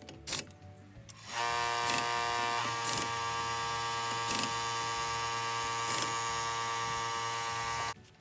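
Air impact wrench running with a steady buzzing whir for about seven seconds, the pitch shifting slightly early on, with a few clicks over it, before it cuts off suddenly near the end.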